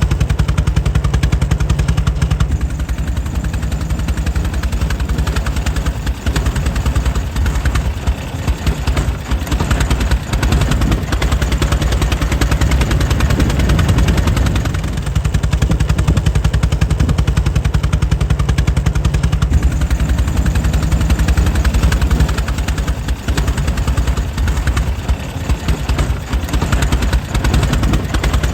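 Air-cooled 1904 Mitchell engine running steadily, a rapid, even string of exhaust beats.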